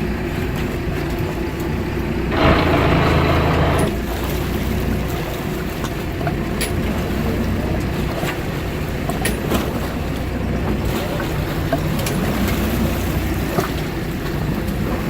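Fishing boat's engine running steadily with a low hum, with a louder rushing noise for about a second and a half near the start and a few faint clicks later.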